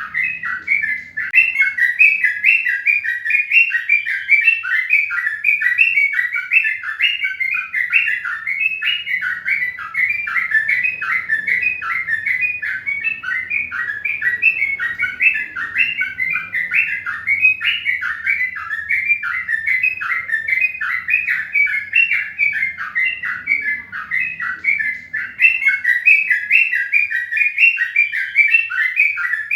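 Bird chirping continuously, a fast, unbroken string of short chirps, several each second.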